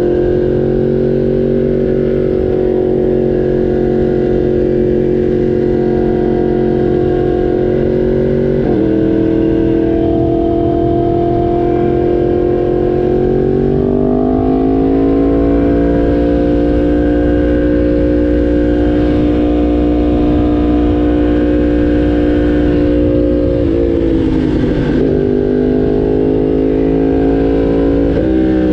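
Yamaha R1 sportbike's inline-four engine running at steady cruising revs. Its note steps down abruptly about nine seconds in, climbs gradually a few seconds later, and near the end briefly dips and climbs back.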